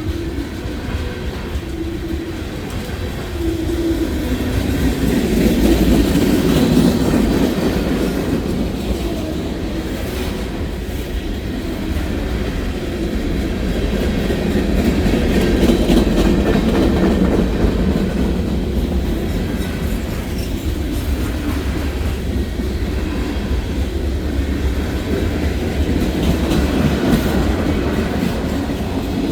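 Freight cars of a long manifest train rolling past: a continuous rumble of steel wheels on rail with clicking over the joints, swelling and easing as the cars go by.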